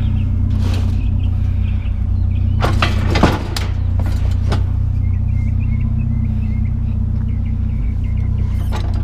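A motor vehicle engine idling steadily, with a few sharp knocks and clanks of scrap being handled, the loudest about three seconds in.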